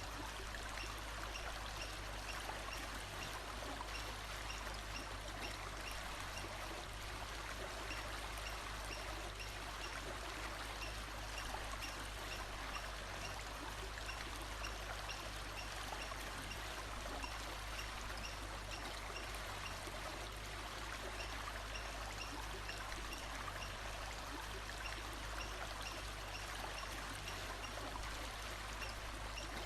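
Running water of a stream or brook, a steady even rush, with a faint high chirp repeating at a steady pace over it.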